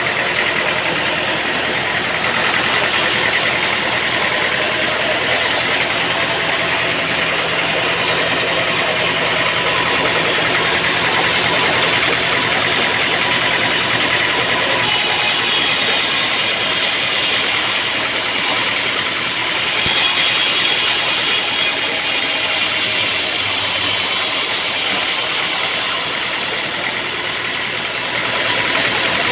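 Sawmill machinery running steadily with a continuous engine drone, joined by a brighter high hiss for several seconds about halfway through.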